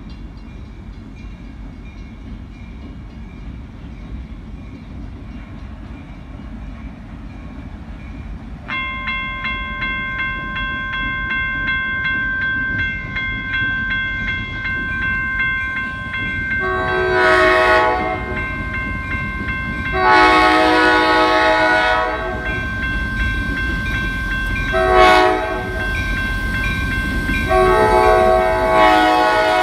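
Mid-Michigan Railroad train approaching with a low rumble, its locomotive horn sounding the grade-crossing signal: two long blasts, a short one, and a final long one. A steady high ringing tone joins about a third of the way in and runs under the horn.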